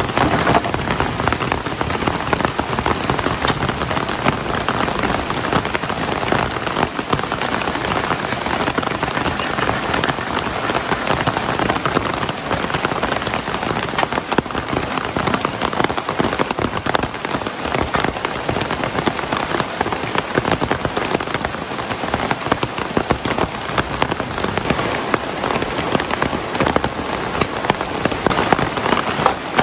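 Heavy rain falling steadily: a dense, even hiss of countless drops striking the ground and surroundings, without a break.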